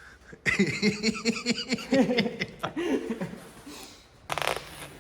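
A man laughing in a run of short chuckles for about three seconds, followed near the end by a brief rasping noise.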